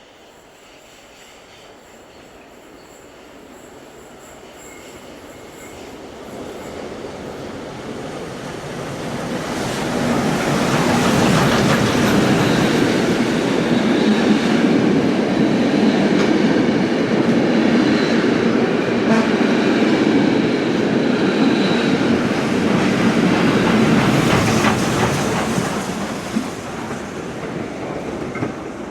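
A train passing close by, its rumbling rail noise building over about ten seconds, staying loud, then easing off near the end. A thin high wheel squeal runs through the loudest stretch.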